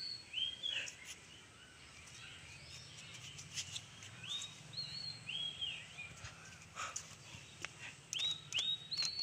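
A bird calling: short phrases of three or four quick notes, each rising and then held, repeated about every four seconds, with a few faint clicks between them.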